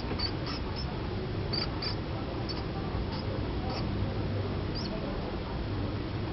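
A mouse squeaking in short, high-pitched squeaks at irregular intervals, about nine in all, over a steady low hum. These are the squeaks of a feeder mouse in distress as it is fed to a small python.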